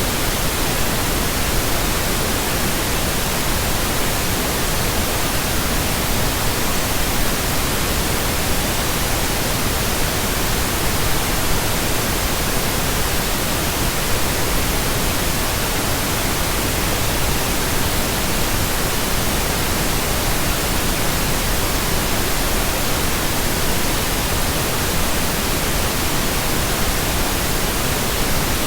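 Steady synthetic pink noise: an even, unchanging hiss across the whole range, with no tones, clicks or breaks.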